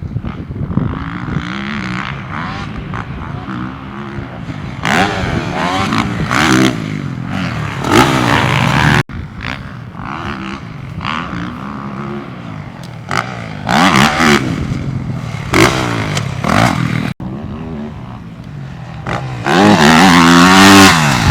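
2023 Yamaha YZ450F's 450 cc single-cylinder four-stroke engine being ridden hard: the revs repeatedly climb and drop as the rider accelerates, shifts and rolls off. The sound breaks off abruptly twice, about 9 and 17 seconds in.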